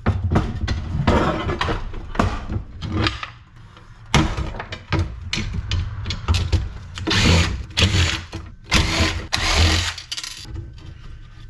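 Scrap light-fixture parts being handled and dismantled: a rapid run of knocks and clatter, with several short, harsh bursts of noise in the second half.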